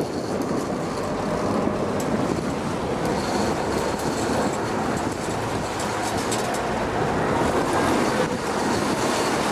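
Sportfishing boat under way: a steady engine rumble mixed with rushing water along the hull.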